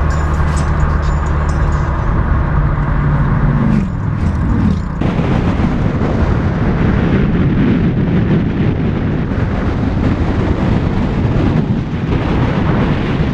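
Car engine running at a steady drone, then revving up with a rising pitch about four seconds in, followed by a loud, dense rush of hard-driven engine and wind noise.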